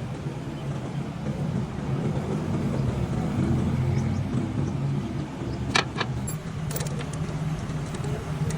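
Car engine idling steadily, with a few sharp clicks about six to seven seconds in.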